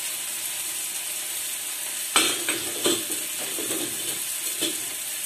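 Onions and tomatoes frying in ghee in a kadhai, a steady sizzle, with a few sharp clicks about two seconds in, again near three seconds and near the end.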